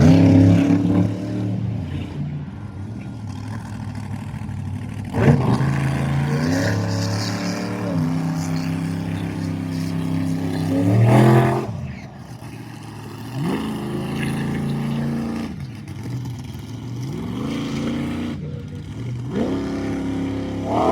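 Monster truck engine revving in repeated surges, its pitch climbing and falling every few seconds, loudest in a long climb about eleven seconds in that then drops off sharply.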